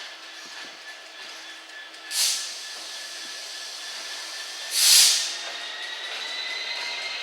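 Diesel locomotive at a station: two short, loud bursts of air hiss from its air brakes, the second louder, about three seconds apart, over a steady high whine that starts to rise in pitch after the second burst.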